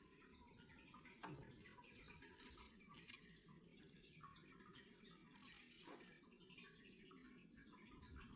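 Near silence: faint room tone with a few soft, brief clicks.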